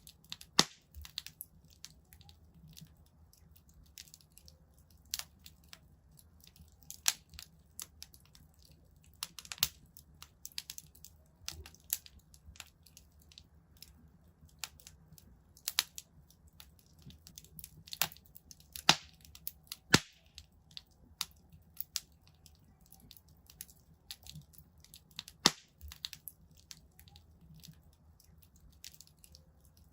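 Wood fire in a fireplace crackling: irregular sharp pops and snaps, a few much louder than the rest, over a faint low rumble.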